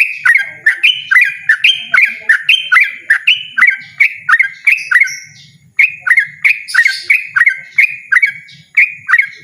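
Yellow-vented bulbul singing loudly in a fast, persistent run of short repeated notes, about three a second, with a brief break a little past the middle.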